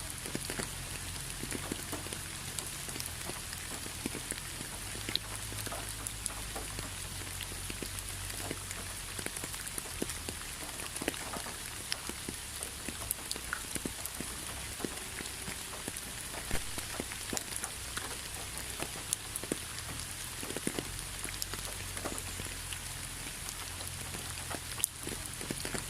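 Steady rain with many individual raindrops ticking on a surface, an even wash of noise with scattered sharp drips throughout.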